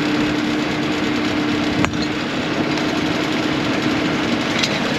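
A vehicle engine idling steadily, with one sharp click a little under two seconds in.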